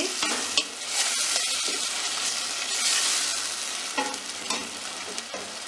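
Tomato slices and spice masala frying in oil in a steel pot, sizzling while a wooden spoon stirs them. The spoon knocks against the pot a few times, about half a second in and around four seconds in.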